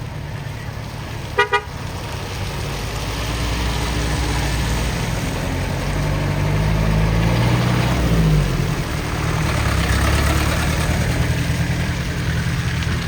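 Two short horn beeps about a second and a half in, then a vehicle engine running under load and growing louder, its pitch rising briefly near the middle as it revs.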